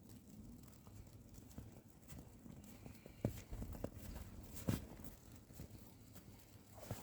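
Faint, scattered knocks and clicks over a low rumble, with two louder thuds about three and a half seconds and four and a half seconds in.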